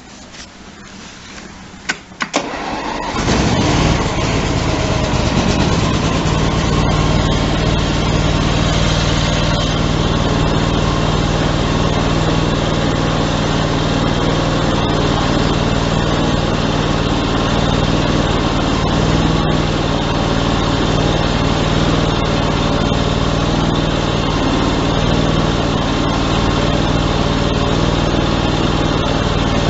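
Cub Cadet 3165 garden tractor engine cold-started on full choke with a little throttle: it cranks for about two seconds, catches about three seconds in, and then runs steadily.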